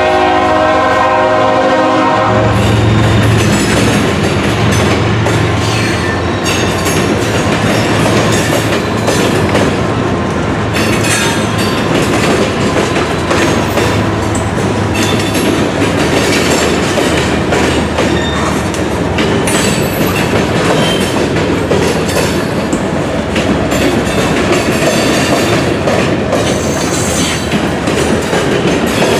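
A diesel train's horn sounds a chord that cuts off about two seconds in. The train then keeps passing close by, with steady wheel-on-rail clatter and a low engine rumble.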